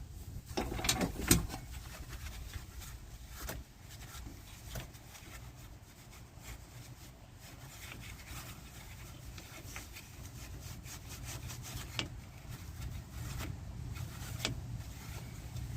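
Scattered clicks, knocks and rubbing of hand work on tractor parts, with a louder burst of scraping and knocking about a second in, over a steady low hum.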